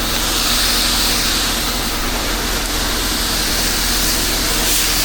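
Pressure washer at work: a steady hiss of water spraying from the wand over the low, even hum of the machine's engine.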